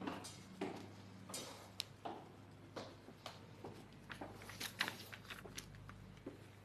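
Faint, irregular light knocks and taps, like someone moving about, over a low steady hum.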